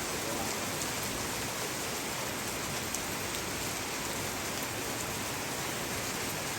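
Heavy rain pouring down steadily, a dense, even hiss of rain falling on surfaces.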